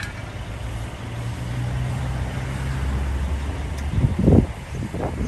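Vehicle engine idling with a steady low hum. About four seconds in, loud low thuds cover it, and they come again near the end.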